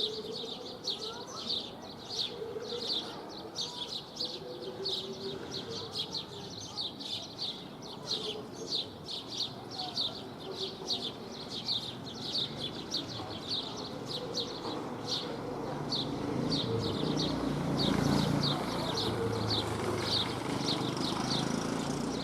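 House sparrows chirping: a steady run of short, high chirps, about two to three a second. A low background rumble grows louder in the last few seconds.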